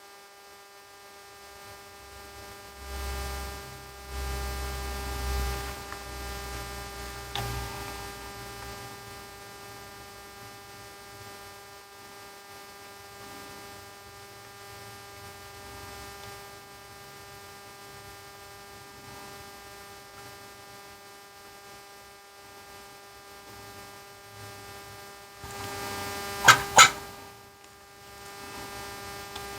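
Steady electrical hum made of several even tones. A low rumble comes in a few seconds in, and two sharp clicks in quick succession near the end are the loudest sounds.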